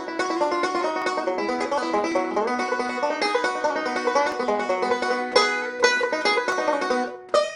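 Banjo picked fast: a steady stream of quick bright plucked notes in a bluegrass-style tune, with a short break about seven seconds in before the picking resumes.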